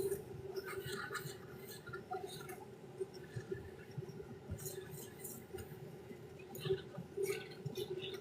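Scattered light clinks and scraping handling noises over a steady low hum.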